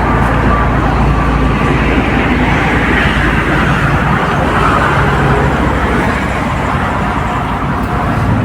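Road traffic: steady vehicle engine and tyre noise, swelling as a vehicle passes about three to five seconds in.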